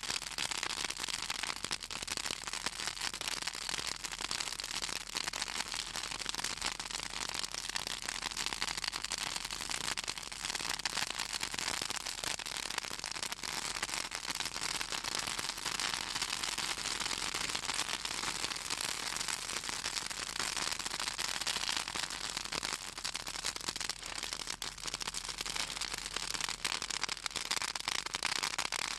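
Fallen southern magnolia branches burning in an open fire, crackling and popping densely and without let-up over a steady hiss; the oil in the magnolia wood and leaves makes them crackle.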